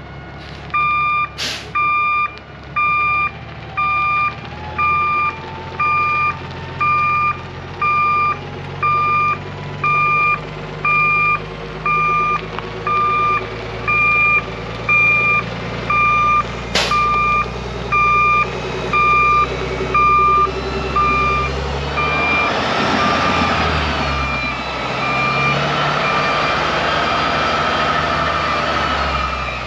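Truck back-up alarm beeping steadily, about once a second, over the low running of a Kenworth T680's compressed-natural-gas Cummins engine as the tractor reverses. Two sharp clicks sound along the way, and over the last several seconds a louder rush of noise rises over the beeping.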